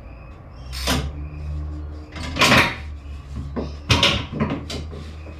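Ratchet and belt tensioner being worked in an engine bay while the serpentine belt is pulled off: a few sharp metal knocks and clatters spread over several seconds, over a low steady hum.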